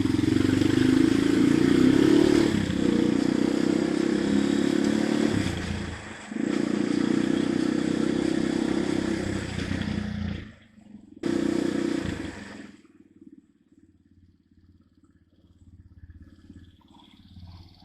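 Dirt bike engine running under steady throttle, with a brief dip about six seconds in. It drops away about ten seconds in, comes back in a short burst of revs, then only a faint low rumble is left.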